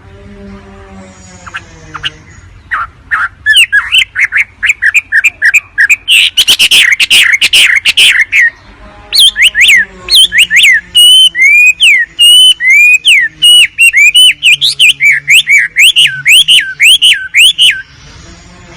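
Wambi bird song: quiet at first, then a run of chirps from about three seconds in and a dense burst of chatter a little later. Then comes a long series of loud, sharply swooping whistled notes that stops just before the end. This is a lure recording for attracting wambi birds.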